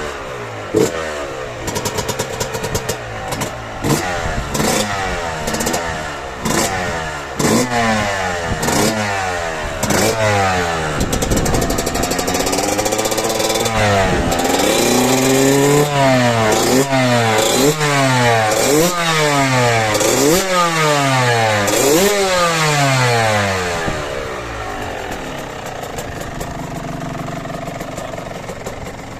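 Tuned Fantic XE 125 two-stroke motocross engine revving hard, its pitch climbing and dropping again and again, about once a second. Near the end it settles to a lower, steadier running note.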